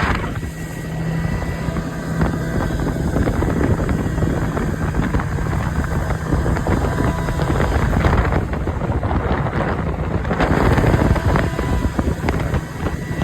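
A motor running steadily under heavy wind buffeting on the microphone, with a steady low hum that fades out about eight seconds in.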